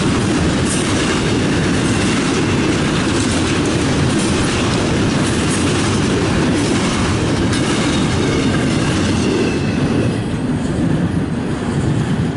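Double-stack intermodal container train rolling past: a steady rumble with steel wheels clacking over the rail joints, its high end thinning out near the end as the last cars go by.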